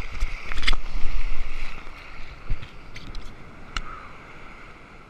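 Ocean surf washing, with wind buffeting the microphone as a heavy rumble that eases after about two seconds, and a couple of sharp clicks.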